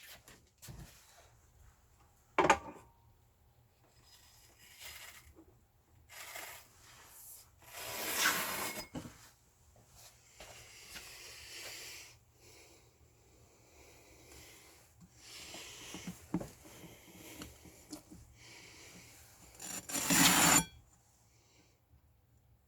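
Intermittent handling noises of a wool polishing pad being fitted onto a sharpening machine: rubbing and scraping with a sharp knock about two seconds in and louder rubs near the middle and near the end.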